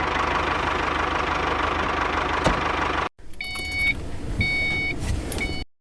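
Engine running steadily, breaking off about three seconds in; then the engine sound returns with three short horn beeps, the last one clipped, and stops abruptly near the end.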